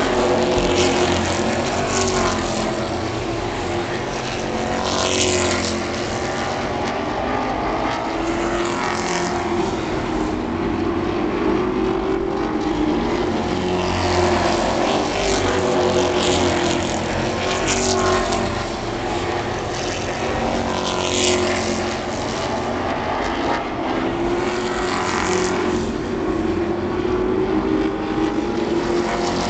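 Several stock-car racing pickup trucks running at speed around an oval. Their engines run continuously, rising and falling in pitch, and a truck passes by every few seconds.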